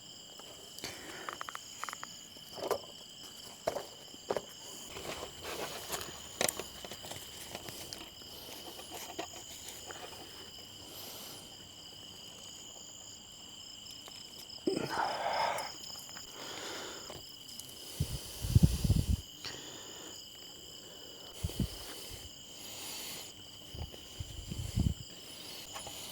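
Crickets chirping steadily in a continuous high trill, with scattered clicks and knocks and a few loud low thumps close to the microphone.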